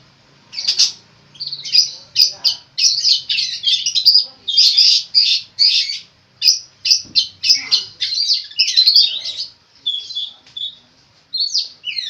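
Long-tailed shrike (cendet) singing hard: a fast, varied string of short, harsh, high phrases full of mimicked calls of other birds. It pauses briefly about ten seconds in, then starts again.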